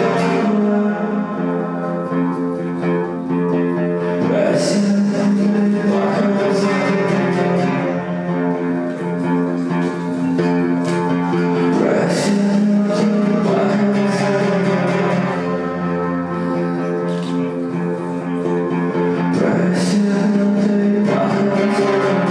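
Acoustic guitar music played live, sustained chords ringing with a fresh strum every few seconds.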